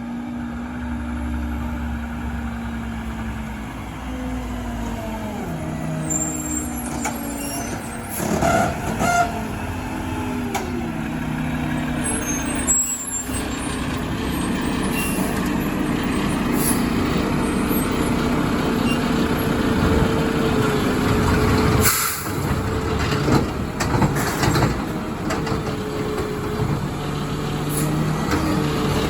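Mack LR garbage truck's engine running and changing speed, its pitch rising and falling several times, with several short sharp hisses and clanks over it.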